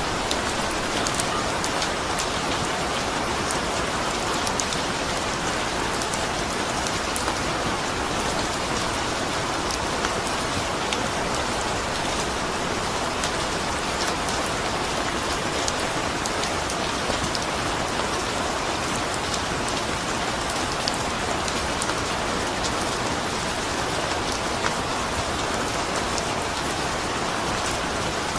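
Steady, even rain falling, with many small drop ticks over a constant hiss.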